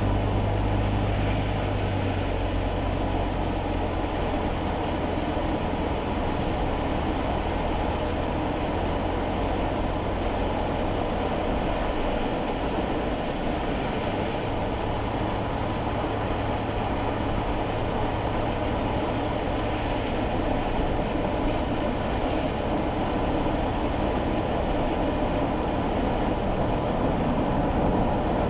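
Steady tyre and road noise inside a small kei car driving on a wet road, under a low engine hum that eases about two seconds in.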